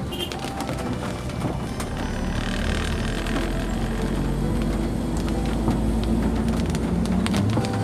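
Car driving in the rain: steady road and engine rumble with scattered ticks of raindrops on the car.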